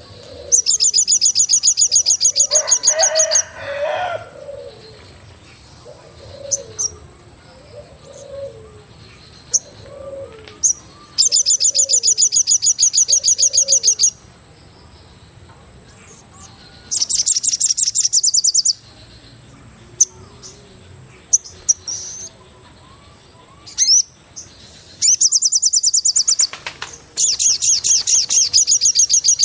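Forest birds calling: a loud, fast, high trill repeated in five bursts of two to three seconds each, with a series of soft low cooing notes about once a second in between, and a faint steady high whine underneath.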